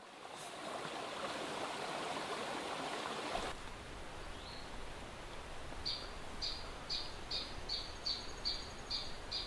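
Rushing water, fading in, then a sudden change about three and a half seconds in to quieter outdoor ambience with a faint low hum. From about six seconds in, a bird calls in an even series of short high chirps, about three a second.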